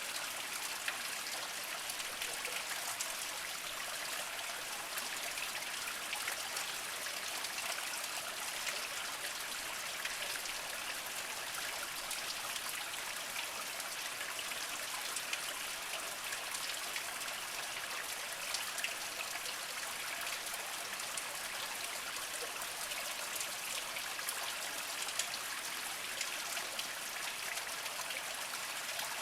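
Small spring-fed stream trickling and splashing over mossy rocks: a steady, even water sound with many small drips and splashes.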